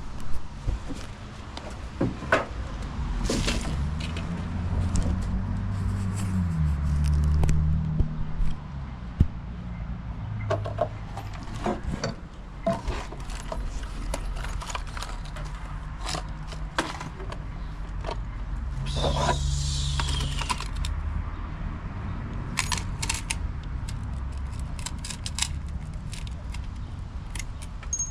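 Deck-building work: scattered clicks, knocks and metallic clinks of tools and fasteners being handled, over a low rumble. About nineteen seconds in there is a brief louder noisy burst with a falling pitch.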